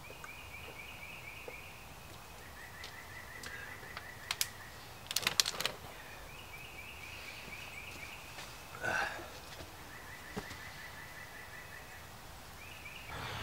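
A small bird trilling: repeated trills of rapid notes, each about two seconds long, switching between a higher and a lower pitch. A few sharp clicks about five seconds in, the loudest sounds here, and a short rustle near nine seconds.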